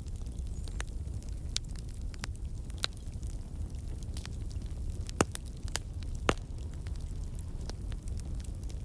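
Wood campfire burning: a steady low rumble of flame with scattered sharp pops and crackles from the logs, two louder pops about five and six seconds in. The crackling comes from water and sap in the wood turning to steam and bursting out.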